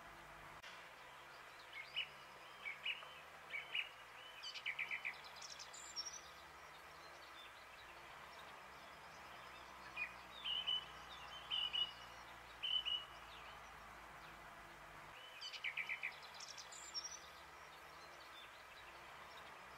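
Small birds chirping in groups of short calls and quick trills a few seconds apart, over a steady faint outdoor hiss.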